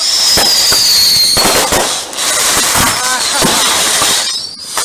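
Fireworks going off: a whistling shell, its whistle falling slightly in pitch over a loud hiss for about a second and a half, then a run of sharp cracks and bangs.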